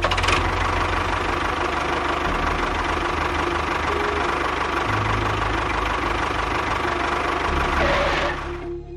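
A small engine running steadily with a low, knocking pulse. It fades and cuts off just before the end.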